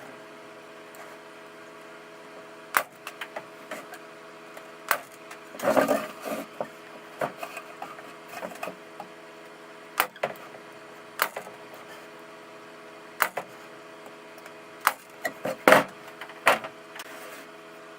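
Pin nailer driving pins into a pine shelf, sharp snaps a second or two apart, some in quick clusters, over a steady low hum.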